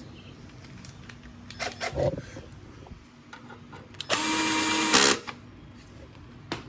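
A power drill/driver runs once for about a second, at a steady pitch, driving in a bolt. Before it come a few knocks from handling parts and tools.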